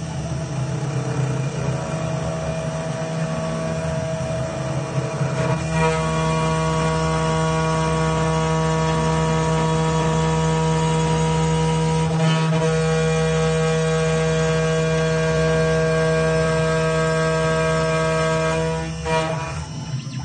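CNC router's 2.2 kW water-cooled spindle running while its cutter engraves a flat steel bar under water-flood cooling, a steady machine whine of several fixed tones over a low hum. About six seconds in it grows louder and more tones join, and it falters briefly near the end.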